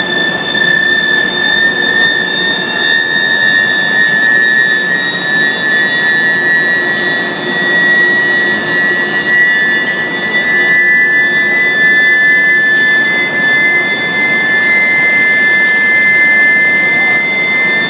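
Induction billet heating furnace running with a steady high-pitched whine, one tone of which slowly rises in pitch, over a noisy machine hiss.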